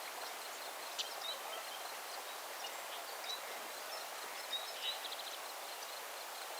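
Outdoor nature ambience: a steady hiss with a few faint, scattered bird chirps, including a short rapid trill about five seconds in.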